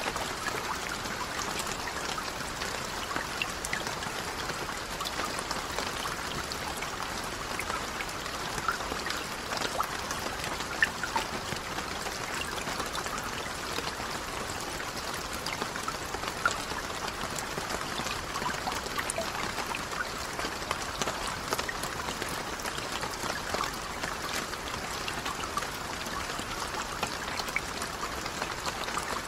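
Steady rain falling on a lake's surface: a dense, even patter of drops on water, with a few louder single drops standing out now and then.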